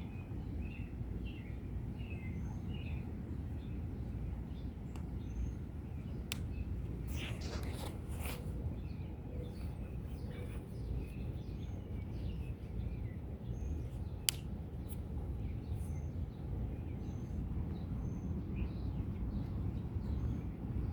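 Outdoor ambience with birds chirping in short, scattered calls over a steady low rumbling background, broken by a few sharp clicks.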